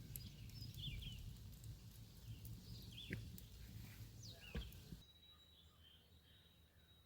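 Birds chirping in short calls over a low rumble of wind on the microphone, with a few soft knocks. About five seconds in the rumble cuts off abruptly, leaving quieter, fainter bird calls.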